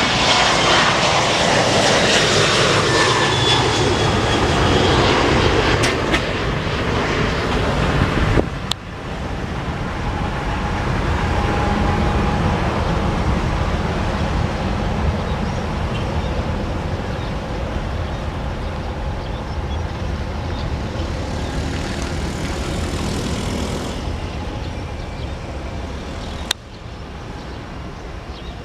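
Engines of an airliner taking off, loud at first with a falling whine as it passes, then a lower, steady rumble as it climbs away. The sound drops abruptly twice, about eight seconds in and near the end.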